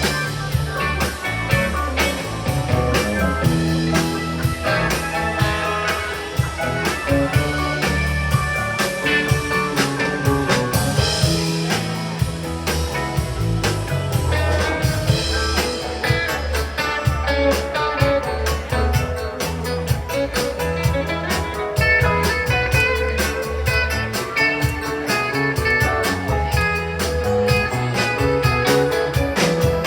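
Live rock band playing an instrumental passage: guitar over a moving bass line and a drum kit keeping a steady beat.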